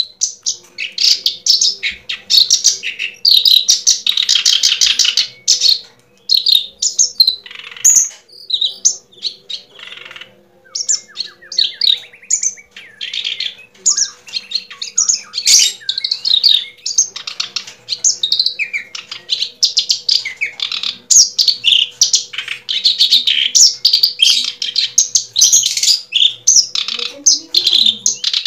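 Birds chirping and twittering in a dense run of short, high calls, thinning out for a few seconds partway through.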